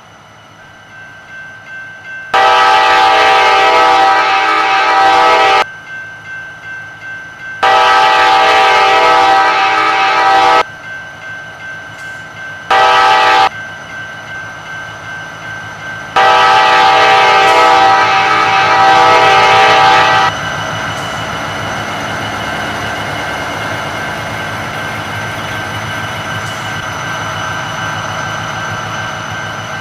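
Multi-tone air horn of a CSX SD70M diesel locomotive leading a freight train, sounding the grade-crossing signal: long, long, short, long. The train's approach rises in loudness before the horn, and after the last blast the locomotives and freight cars pass with a steady rumble and wheel clatter.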